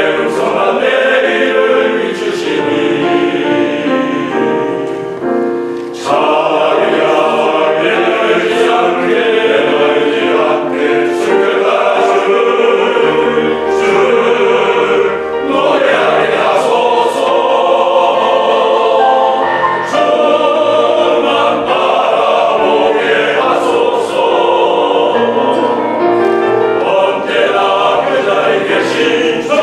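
Church elders' vocal ensemble singing a congratulatory anthem in harmony, in sustained phrases with a short dip about six seconds in.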